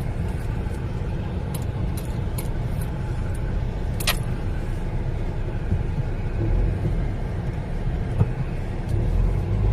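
Car driving slowly along a rough, waterlogged street: a steady low rumble with scattered clicks and rattles, the sharpest about four seconds in.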